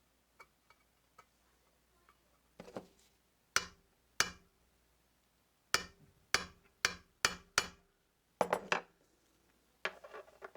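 A series of sharp metal clanks and clinks from a small steel tool box being handled, about a dozen at irregular intervals, some in quick runs, several leaving a brief ring.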